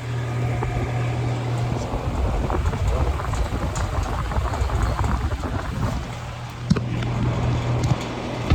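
Air conditioner outdoor condensing unit running after being switched back on: a steady low hum from the compressor under the rushing air noise of the condenser fan. One sharp knock comes about two-thirds of the way through.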